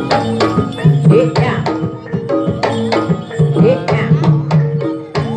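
Javanese jaranan gamelan music: kendang hand drums play quick strokes, some bent upward in pitch, over the steady ringing tones of metallophones and gongs in a repeating rhythm.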